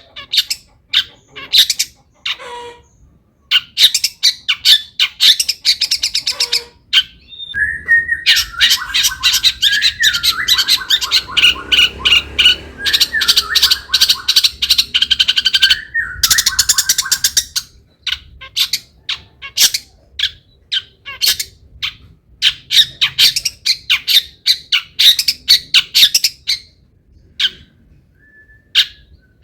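Long-tailed shrike (cendet) singing a fast, harsh, chattering song of rapid notes, laced with mimicked calls. The song runs dense and unbroken through the middle, with more spaced-out notes before and after.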